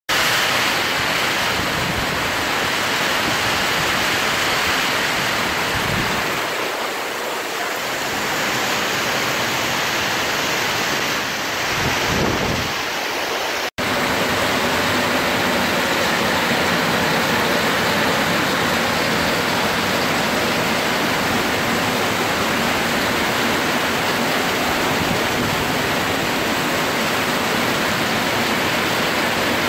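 Heavy tropical downpour, a loud steady hiss of rain on wet pavement. After a brief dropout about halfway through, the heavy rain continues as water pours off the edge of a corrugated metal roof and splashes below.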